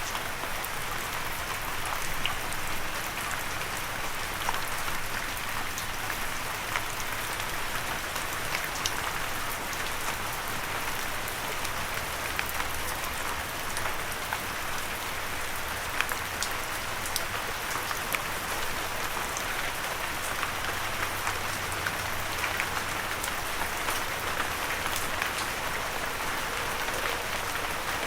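Steady light rain falling, an even hiss with many small drop pats and ticks scattered through it, and no thunder.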